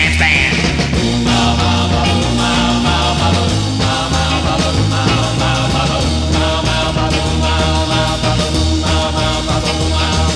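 Instrumental rock and roll band music with a steady beat.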